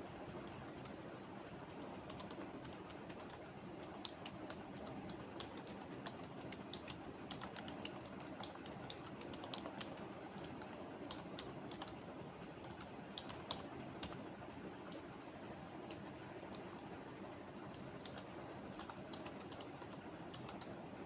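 Computer keyboard typing: irregular runs of light key clicks over a steady faint background noise.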